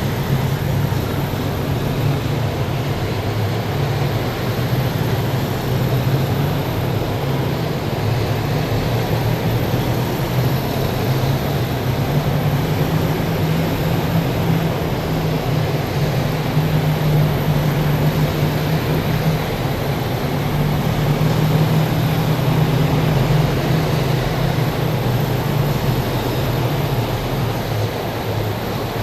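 Column of heavy military vehicles driving past: a steady, deep engine drone over a broad road rumble, swelling slightly in the middle and easing off near the end.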